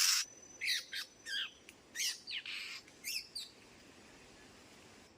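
Birds calling: a quick series of short, sharp chirps that slide in pitch, over the first three and a half seconds, then quiet background. A brief burst of noise at the very start.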